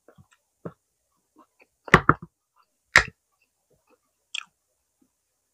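Eating smoked chicken: scattered soft chewing clicks, with a loud cluster of biting smacks about two seconds in and another about three seconds in.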